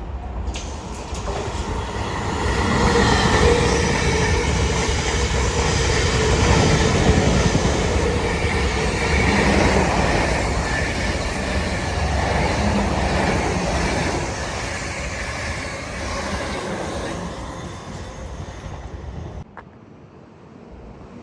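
A train passing on the rails, building up over the first few seconds, staying loud for about ten seconds, then fading. The sound cuts off suddenly near the end.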